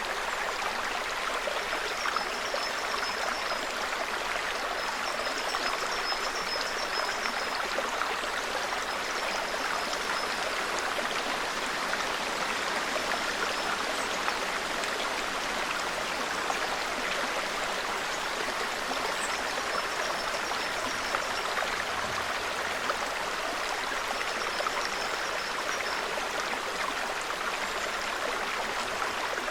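Small forest stream babbling steadily over stones. Faint, high, thin trills come and go every few seconds.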